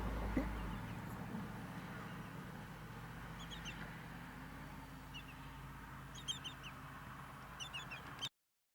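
Bird calls: short, high, rising notes in small clusters of two to four, heard several times over a low background rumble that fades in the first second. The sound cuts out abruptly near the end.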